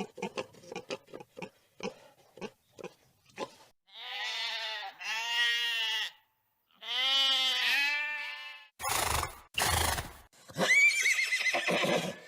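A hen clucking in quick short notes, then livestock calling: two long wavering calls, two short snorting bursts, and a high call that drops in pitch near the end.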